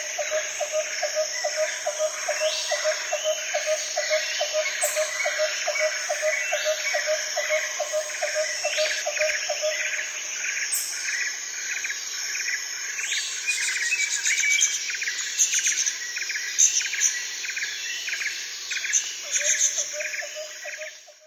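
Fairy-wren song: rapid high chirps and reeling trills, over a steady high insect drone. A low note repeats about three times a second for the first ten seconds and returns near the end. All of it cuts off suddenly at the end.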